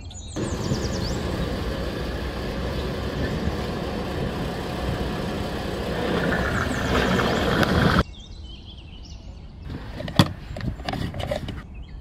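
Tractor engine noise, started with a hand crank and running steadily, growing a little louder and then cutting off suddenly about eight seconds in. A few light clicks and one sharp click follow.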